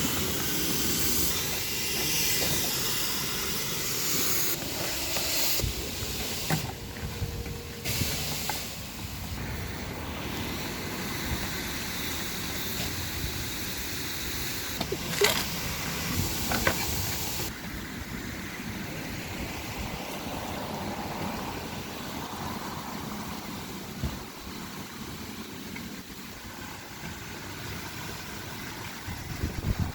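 High-pressure car wash spray wand hissing steadily on a car, with a few sharp knocks around the middle. A little past halfway the high hiss cuts off suddenly, leaving a quieter rush.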